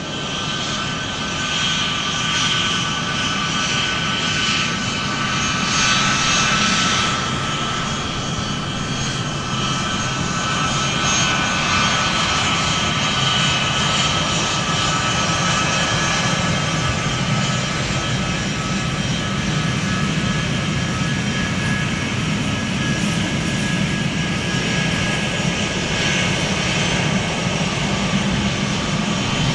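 Airplane turbine engines running steadily: a broad rush with a high whine of several steady tones over it.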